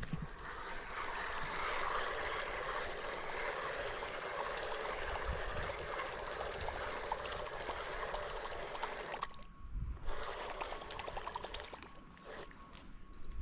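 Water running or pouring in a steady rush that stops abruptly about nine seconds in, followed by a few faint clicks and knocks.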